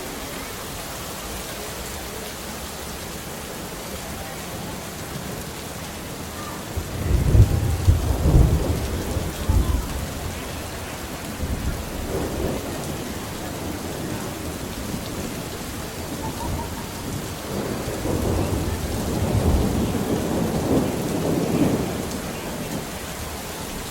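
Steady rain with thunder rolling in twice: a loud low rumble of crackling peals about a third of the way in, then a second longer roll near the end.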